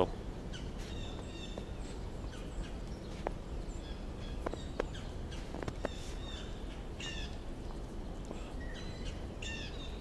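Small birds chirping and twittering in short, scattered calls over a steady low background noise, with a few faint sharp clicks around the middle.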